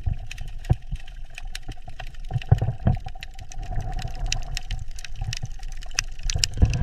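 Underwater ambience: a steady low rumble of moving water with many scattered sharp clicks.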